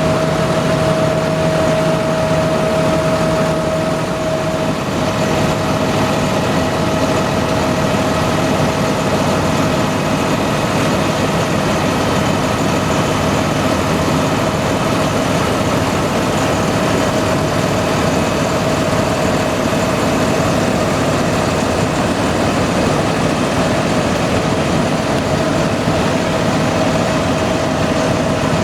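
Tractor engines running steadily at idle, with a thin steady whine above the engine noise.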